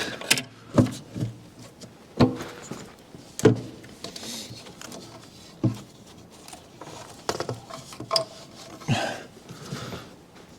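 Parts being handled in an engine bay: about eight scattered knocks and clicks as the fuel lines are worked onto the intake manifold.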